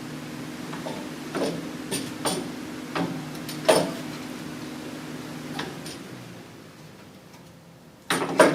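Scattered sharp metal knocks and clicks of tools and suspension parts being worked on, over a steady machine hum that stops about six seconds in. A louder pair of knocks comes near the end.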